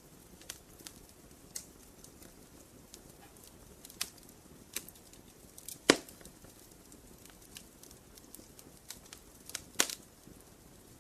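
Wood campfire burning with a soft low rumble and scattered crackles and pops, the loudest about six seconds in and another just before ten seconds.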